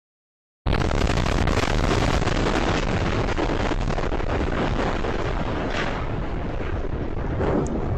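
Loud, steady rumbling roar of the burning UPS MD-11F cargo plane crash, with wind buffeting the microphone. It cuts in suddenly after a moment of silence, a little under a second in.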